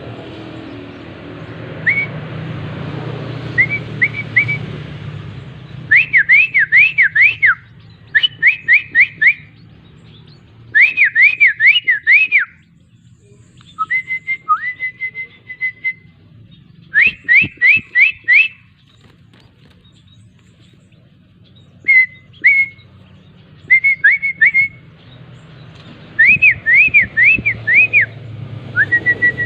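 Young long-tailed shrike (cendet) giving clear whistled calls in short runs of four to six quick rising-and-falling notes, about eight runs with pauses between them.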